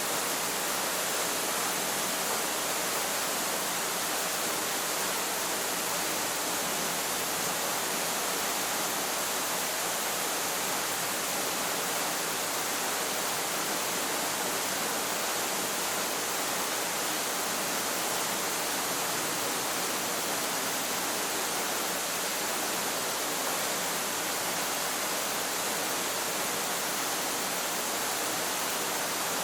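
Waterfall rushing: a steady, unbroken hiss of falling water with no changes.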